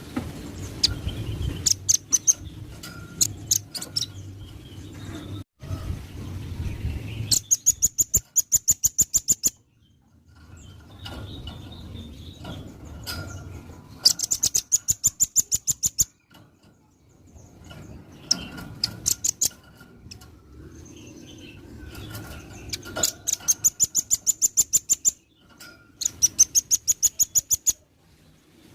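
Velvet-fronted nuthatch (rambatan paruh merah) singing: fast runs of high, sharp notes at about six or seven a second, each run lasting about two seconds, with scattered single chirps between them.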